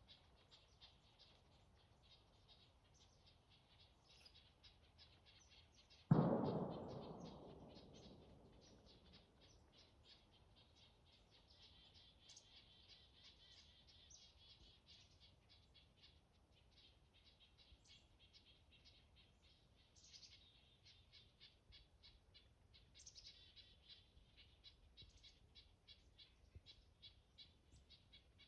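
Black-capped chickadees and red-breasted nuthatches calling, a faint, busy chatter of short, rapid notes. About six seconds in, a single loud thump dies away over a couple of seconds.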